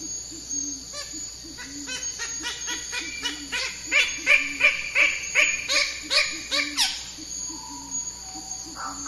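Birds calling: a low note repeats steadily while a run of short higher notes builds, getting louder and quicker, and ends in one falling note about seven seconds in.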